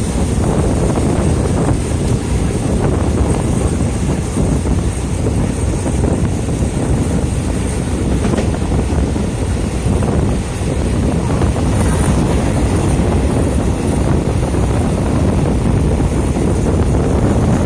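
Wind buffeting the microphone over a steady low rumble from a train on the move.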